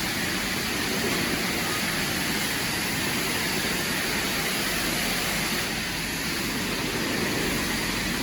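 Steady rushing hiss of high-pressure water spray as a semi truck is washed, even and unbroken throughout.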